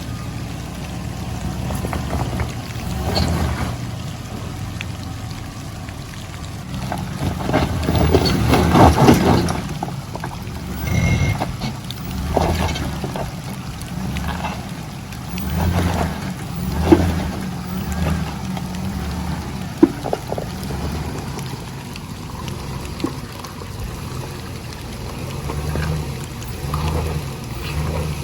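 Chevrolet Suburban towing a camper, its engine running at low speed with a pulsing drone, while water and mud slosh and splash in surges under the tyres; the biggest surge is about a third of the way in. Two sharp knocks come through midway.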